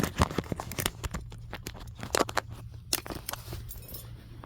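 Irregular clicks and knocks of a phone being handled and set in place, denser in the first couple of seconds, over a low steady hum.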